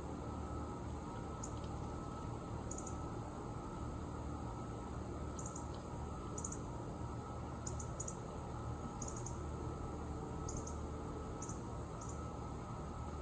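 Outdoor ambience: a steady, high-pitched insect-like drone with short, high chirps, often in pairs, about once a second, over a low rumble.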